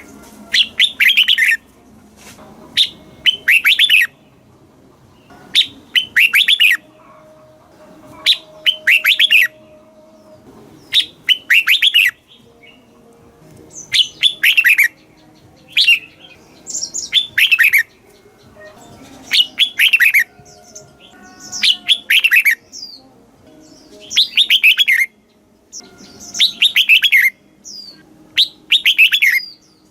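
Red-whiskered bulbul singing: short, bubbly phrases of quickly falling notes, repeated every two to three seconds.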